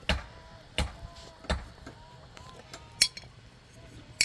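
Rhythmic hammer blows, one about every 0.7 seconds, stopping about a second and a half in; two sharper, brighter clicks follow, one near the middle and one at the end.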